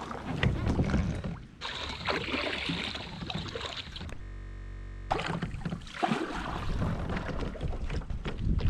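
Water and hull noise from a kayak on the water, with scattered knocks.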